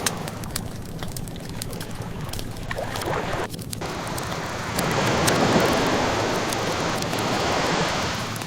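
Ocean waves washing in steadily, one swelling louder about halfway through, with a wood fire crackling in small scattered pops over them.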